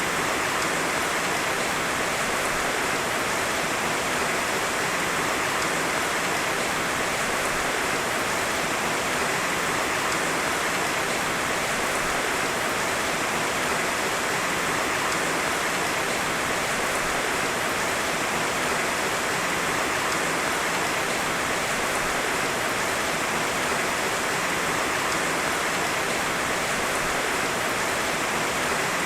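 Heavy rain falling in a steady, dense hiss, with no thunder.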